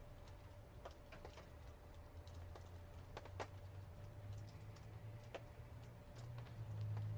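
Wood fire crackling: sparse, irregular sharp pops and snaps, over a low rumble that grows louder about six seconds in.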